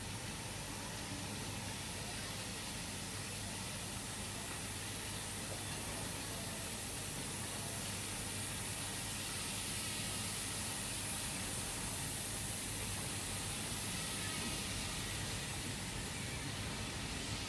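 Steady rushing hiss of a moving train, swelling slightly and easing again.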